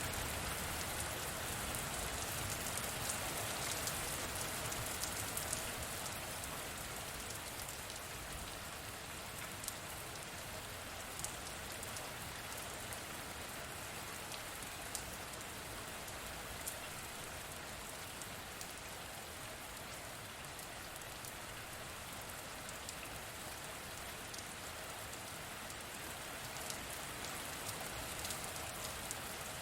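Steady rain falling, with scattered sharper drop taps standing out now and then; a little louder for the first few seconds, then even.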